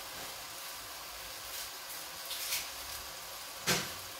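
Ossobuco and soffritto frying in a steel pot on a gas burner: a steady sizzle with a few soft spatters. A single sharp knock comes near the end.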